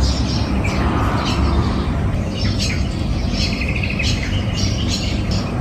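Several birds chirping and calling in quick, overlapping short notes, with a rapid trill a little past halfway, over a steady low rumble.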